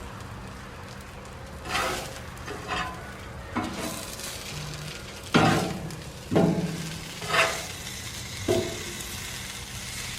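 Chicken sizzling in hot oil on a Blackstone griddle's flat steel top, with about seven sharp scrapes and clacks of a spatula on the steel as the pieces are flipped, the loudest about halfway through.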